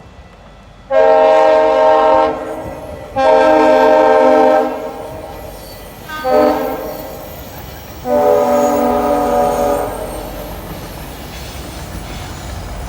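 GO Transit commuter train horn, a chord of several notes, sounding long, long, short, long: the standard grade-crossing signal. After that the train rumbles past.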